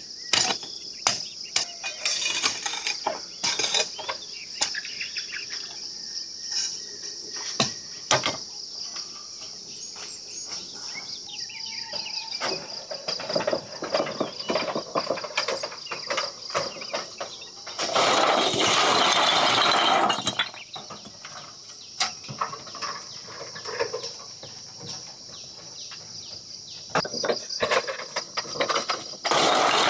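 Irregular knocks and clicks of hand work, with two loud scraping-like stretches of a few seconds each, one past the middle and one near the end, over a steady high insect drone.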